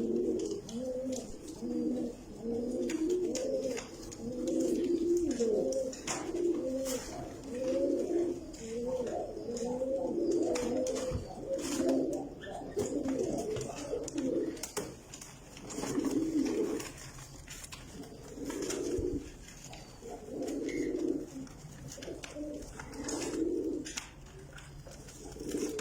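Domestic pigeon of the Iraqi Tar type cooing over and over: low warbling coo phrases back to back at first, then with short gaps between them.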